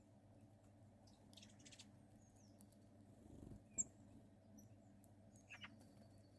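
Very quiet outdoor ambience with a steady low hum, a few faint, short, high bird chirps and a single sharp click nearly four seconds in.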